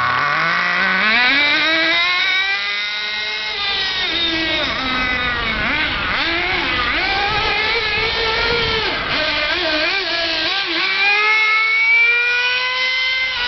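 The small combustion engine of a 1:7 scale RC Audi V8 model car, fitted with a modified exhaust, revving. Its high-pitched note climbs steeply in the first couple of seconds, rises and falls with the throttle through the middle, and climbs again near the end.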